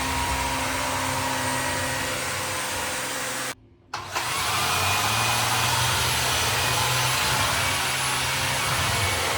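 Shark EVOPOWER SYSTEM NEO+ cordless stick vacuum running with a steady whir. It cuts out suddenly for about half a second a little past the middle, then runs on.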